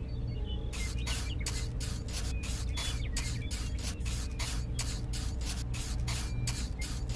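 Small electric motor running steadily, with a quick regular ticking of about four ticks a second starting just under a second in.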